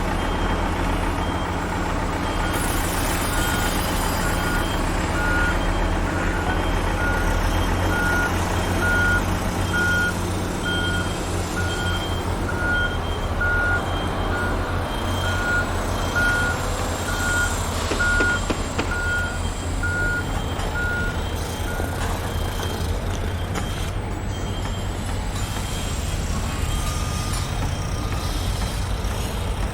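Construction vehicles' reversing alarms beeping at an even pace over a steady low truck-engine rumble. Two alarms at different pitches overlap; the lower one starts a few seconds in and stops about two-thirds of the way through.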